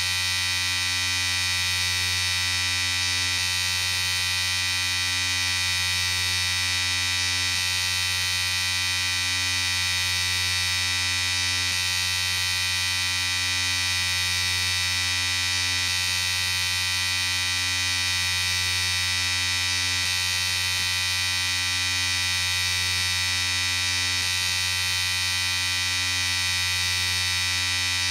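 Electric shaver running continuously, a steady buzz with a strong low hum and a bright high edge, unchanging throughout.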